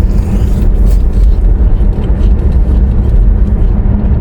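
Steady low rumble inside a car's cabin: engine and road noise with no distinct events.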